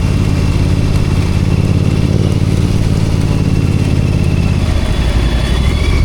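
Royal Enfield Continental GT 650's 648 cc parallel-twin engine running at a low, steady idle. Its note shifts a little before five seconds in.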